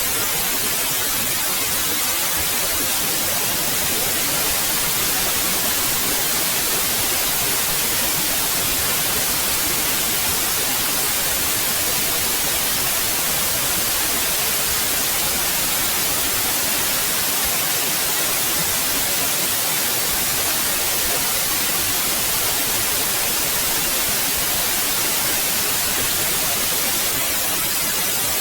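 Synthetic white noise: a steady, even hiss, brightest in the treble, with no change in level.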